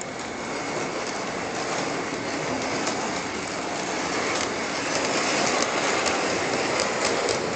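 Bachmann large-scale Thomas the Tank Engine model train running along G gauge track: a steady rolling rush with scattered clicks, growing louder over the first few seconds.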